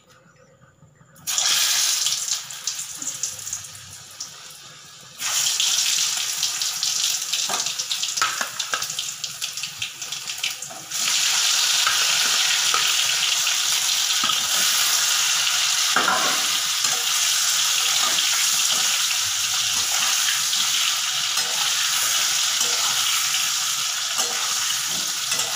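Steamed potato pieces sizzling in hot mustard oil with turmeric in a steel kadai. The sizzle starts about a second in, eases for a few seconds, then comes back louder and steps up again about eleven seconds in as more pieces go in.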